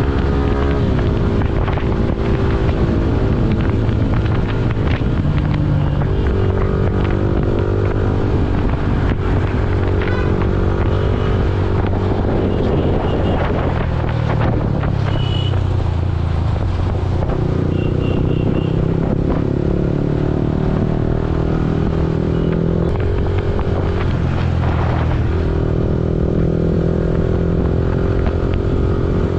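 A Yamaha R15 V4's single-cylinder engine runs on the move, its note stepping up and down in pitch several times as the speed changes.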